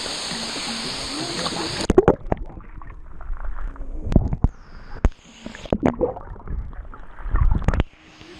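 Steady rush of the waterfall, which cuts off abruptly about two seconds in, giving way to muffled splashing and gurgling of water close to the microphone, with irregular knocks.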